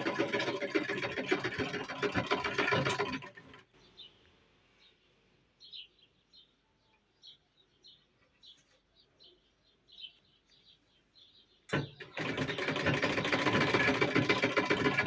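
Old sewing machine stitching at speed with a fast, even needle rhythm. It stops after about three seconds and starts again with a click near twelve seconds in. In the pause, short faint high chirps are heard.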